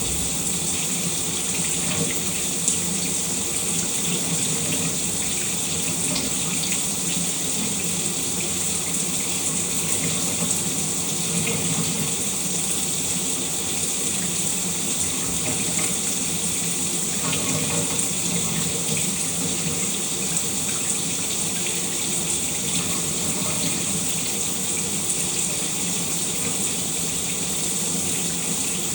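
Shower running steadily, water spraying and splashing in an even hiss with small drops spattering through it.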